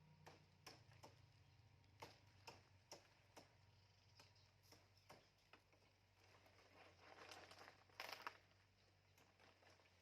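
Near silence with faint, irregular clicks and taps over a low steady hum.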